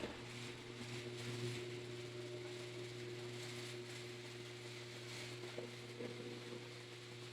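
Faint steady mechanical hum with a few even tones over a background hiss, with a couple of light knocks about five and a half and six seconds in.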